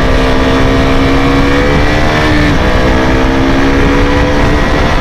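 KTM RC200's single-cylinder engine accelerating hard, the revs climbing, dropping once at an upshift about two and a half seconds in, then climbing again. Heavy wind rush on the microphone.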